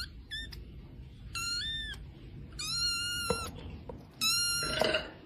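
Cat meowing four times in high-pitched calls about a second apart. The second call steps up in pitch partway through, and the third is the longest.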